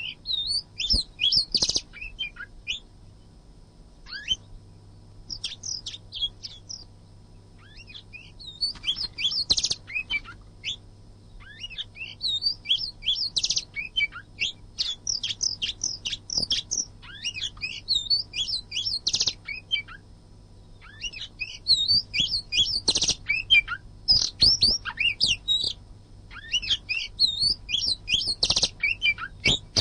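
Oriental magpie-robin (kacer) singing a fast, varied whistled song, phrase after phrase in bursts with brief pauses, the dense 'gacor' song used to stir other kacer into singing. A faint steady low hum runs underneath.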